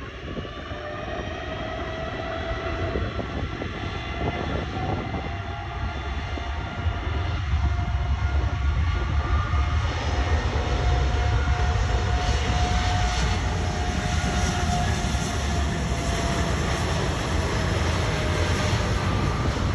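Jet airliner on landing approach, its engines giving a low rumble with several steady whining tones that drift slowly in pitch, growing louder over the first half as the plane comes closer.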